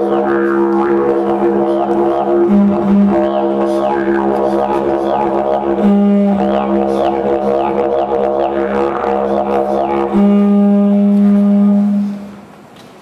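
Didgeridoo music: a steady low drone with shifting overtones, which fades out near the end.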